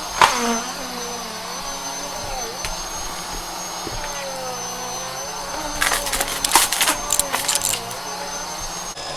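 Vacuum cleaner running steadily with a high whine. A sharp click comes just after the start, and a quick run of rattling clicks comes from about six to eight seconds in.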